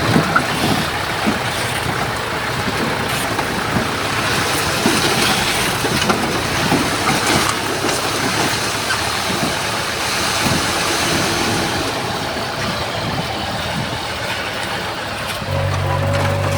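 Komatsu bulldozer's diesel engine running under load, with frequent clanks and rattles of tracks, blade, soil and stones. A steady low hum comes in near the end.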